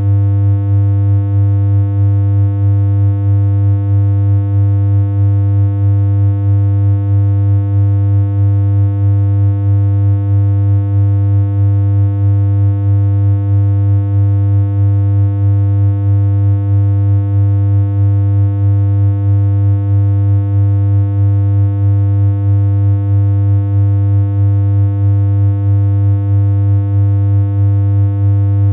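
A steady synthesized electronic hum: one low, unchanging tone with a stack of overtones, no melody, and a slight regular pulse in level.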